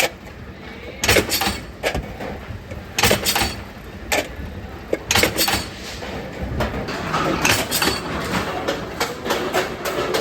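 Metal pieces striking metal in a workshop: irregular clanks and clinks about once a second, some in quick pairs, over a steady din of machinery.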